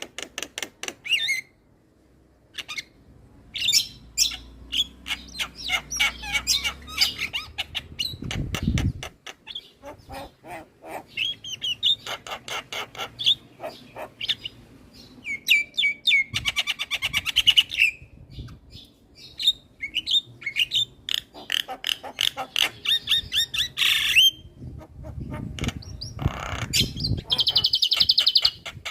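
Javan myna singing a vigorous chattering song: rapid runs of clicks, rattles, trills and whistled notes that break off in brief pauses and start again. Low rumbles come in twice, about a third of the way in and again near the end.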